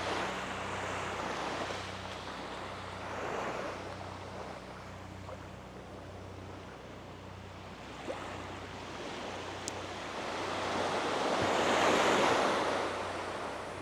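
Small waves breaking and washing up the beach in slow swells, the biggest wash near the end, over a faint steady low hum.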